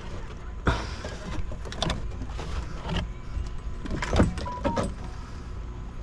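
Plastic trunk-liner trim and sleeved wiring being handled and pushed through: scattered knocks and rubbing scrapes, the loudest knocks about a second in and about four seconds in, over a steady low hum.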